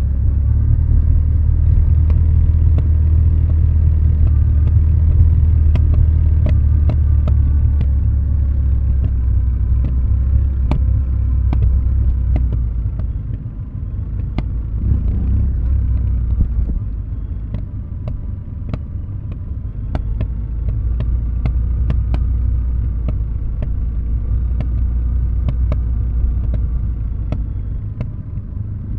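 Kawasaki W650 parallel-twin engine burbling through a Nasert Trad aftermarket muffler on a closed throttle, the bike coasting downhill on engine braking. The low rumble eases about halfway through and firms up again, with scattered sharp clicks throughout.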